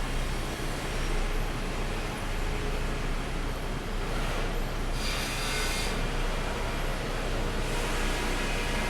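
Sawmill machinery running steadily with a low hum, with a brief brighter hiss about five seconds in.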